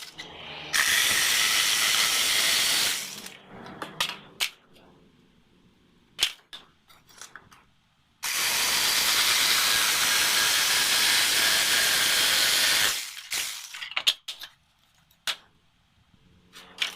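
Two long bursts of steady hiss, one of about two seconds near the start and one of about five seconds in the middle, with scattered sharp clicks and knocks between them.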